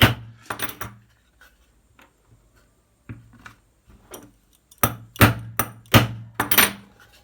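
Hammer taps on a small wooden block laid over a bearing, driving the bearing into a Traxxas Velineon brushless motor's housing. Two taps, a pause of about four seconds with only faint knocks, then five quicker taps.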